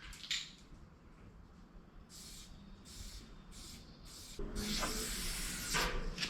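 Aerosol spray paint can spraying: a few short hissing bursts, then a longer continuous spray from about four and a half seconds in.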